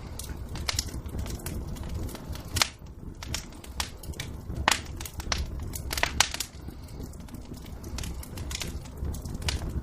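Wood fire crackling in a fireplace: irregular sharp pops and snaps, several loud ones around the middle, over a low steady rumble.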